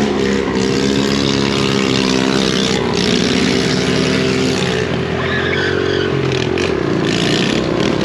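Several small motorcycle engines running together, their pitch drifting up and down with the throttle, with wind and road noise.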